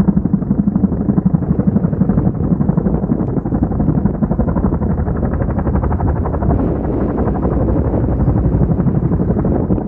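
Large firefighting helicopter's rotor chopping loudly and steadily in a rapid, even beat.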